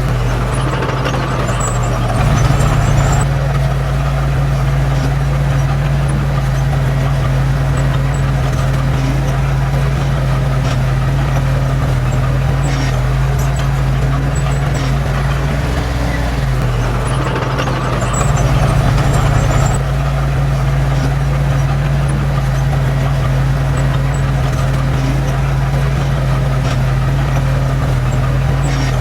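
Heavy diesel engine of an earthmoving machine running steadily at work, with a deep constant hum. It grows louder briefly about two seconds in and again for a few seconds past the middle.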